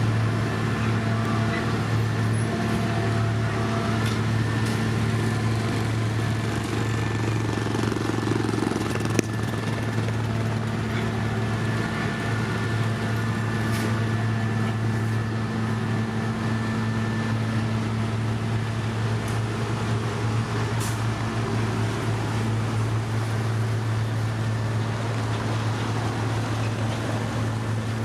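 Engine of heavy road-construction machinery running at a steady speed: a constant low drone with a few steady higher tones over it, and one small click about nine seconds in.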